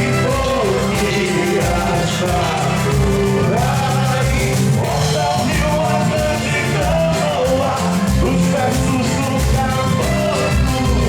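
Live boi-bumbá toada music: a fast, steady percussion beat under a gliding melody line, with singing.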